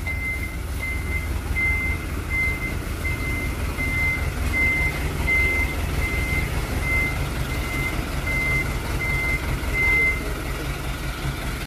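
Kubota four-wheel tractor's diesel engine running steadily, with an electronic warning beeper sounding a single high tone about one and a half times a second; the beeping stops near the end.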